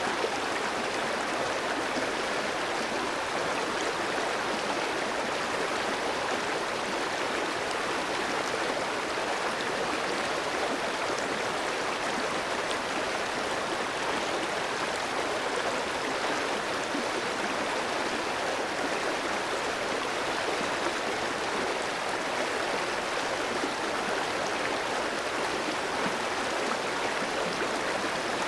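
Clear stream flowing and babbling steadily over rocks, an even rushing sound.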